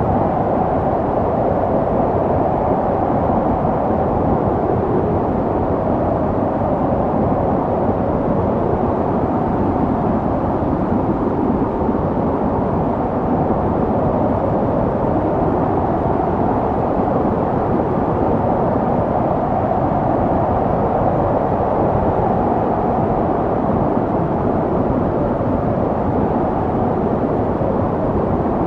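Snowstorm wind blowing steadily: a low, rushing noise with a faint hollow tone that slowly swells and eases.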